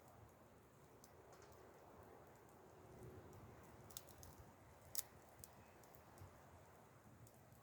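Wood fire crackling faintly: scattered sharp pops and ticks over a quiet background, the loudest two about four and five seconds in.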